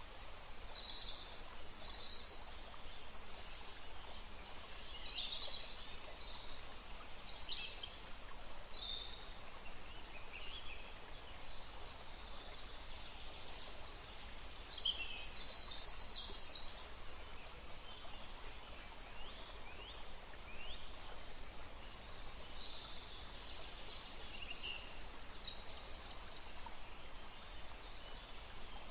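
Woodland ambience: several birds calling in short high bursts, in clusters at the start, near the middle and again near the end, over a steady hiss.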